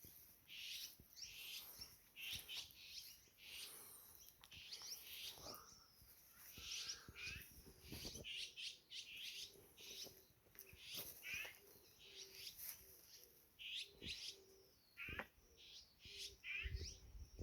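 Small birds chirping and calling, a steady stream of short, quick chirps and twittering notes.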